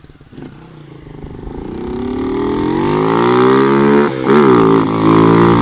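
Motorcycle engine coming closer and accelerating hard, its pitch rising steadily, with a brief drop about four seconds in as it shifts gear, then running loud at high revs.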